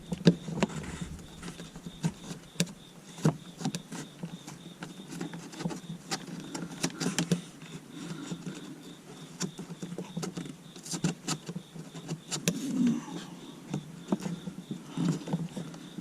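Irregular clicks, taps and rustles of a wire being pushed and tucked in behind plastic car interior trim.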